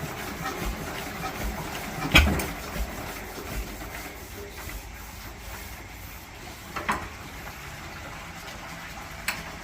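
Lister CS single-cylinder diesel engine being swung over by hand without firing: low thuds for the first few seconds, a sharp knock about two seconds in, and shorter knocks near seven and nine seconds. It will not start from cold, with its cold-start setting not engaged.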